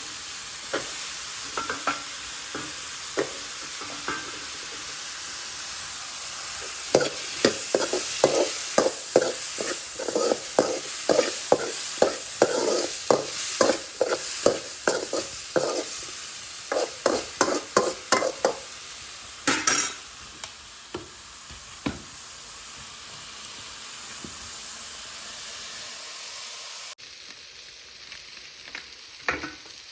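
Food frying and sizzling in a pan while a spoon stirs and scrapes it, the strokes coming about twice a second through the middle stretch, with one louder knock after them; the sizzle goes on steadily once the stirring stops.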